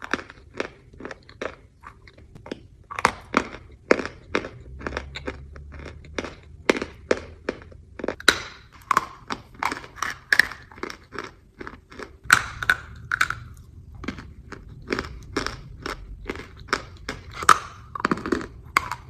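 A chunk of chalk being bitten and chewed: an irregular run of sharp, dry crunches, several a second.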